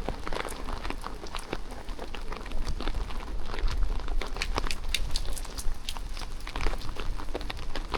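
Rain falling while a person walks: a dense, irregular patter of close raindrop ticks mixed with footsteps, over a low steady rumble.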